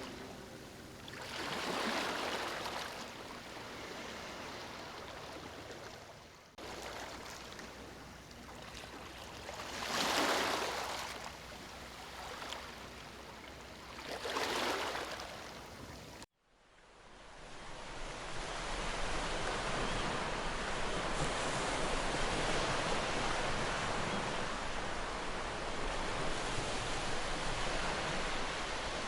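Sea waves surging in and washing back, with three swells over the first half. After a sudden cut it changes to a steadier, continuous rush of surf.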